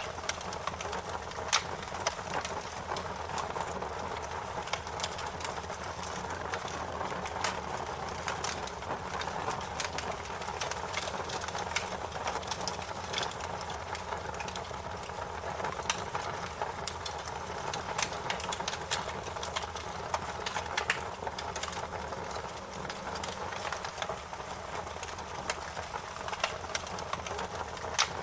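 Wood fire burning with a steady hiss and frequent irregular crackles and pops, the sharpest pop about a second and a half in.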